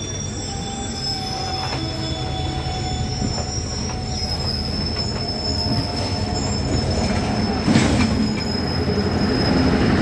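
Train wheels squealing on the rails with a long, steady, high-pitched whine over the running rumble of the carriage, typical of wheel flanges grinding through a curve. A sharp clack comes about eight seconds in.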